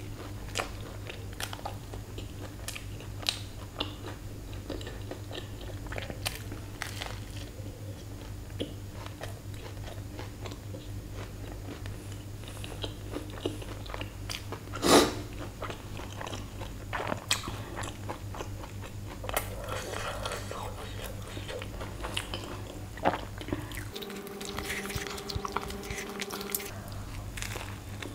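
Close-miked chewing and biting of a burger: wet mouth clicks and soft crunches, with one sharp, much louder click about fifteen seconds in. A steady low hum runs underneath and drops out briefly near the end, when a higher steady tone sounds instead.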